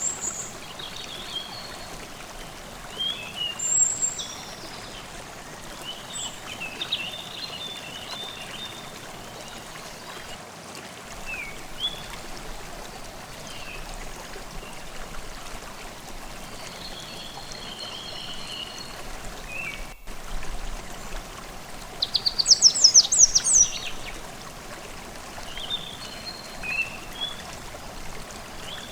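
Forest stream flowing steadily, with songbirds chirping and singing over it. The loudest moment is a quick run of high, rapidly repeated bird notes about two-thirds of the way through.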